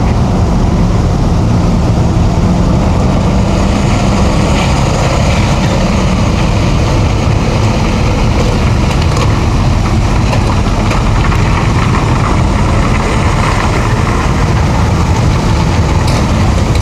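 Boat engines idling and running, a steady low rumble with a held hum that fades out about halfway through.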